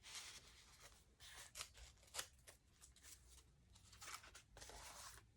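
Faint rustling of stiff paper pages in a handmade journal being turned and handled, with a few short crisp crackles.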